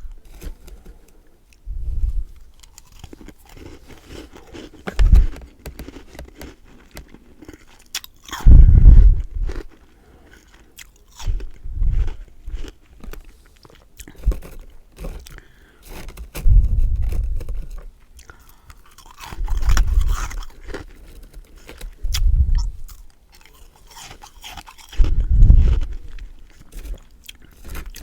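A person chewing and crunching freezer frost and ice close to the microphone: about nine crunching mouthfuls two to three seconds apart, each a burst of crackles over a deep thud, the loudest about nine seconds in.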